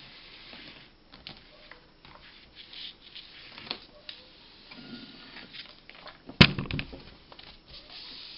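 Light handling noises, small clicks and rustles, with one sharp knock about six and a half seconds in that rattles briefly.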